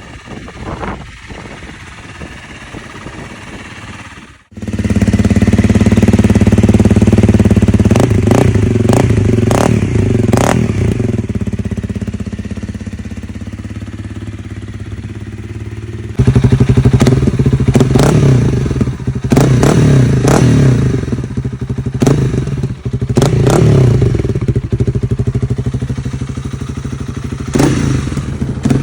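Honda CRF300L single-cylinder four-stroke engine through a Graves full exhaust system, coming in suddenly and loud about four seconds in. It idles with repeated quick throttle blips, and its level steps up again about halfway through.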